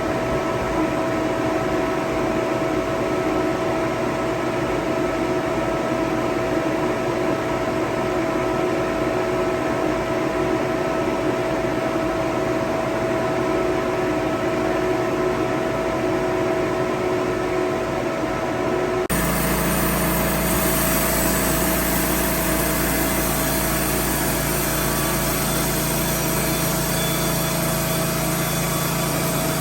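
Small engine running steadily. The sound changes abruptly about two-thirds of the way through, then runs on steadily.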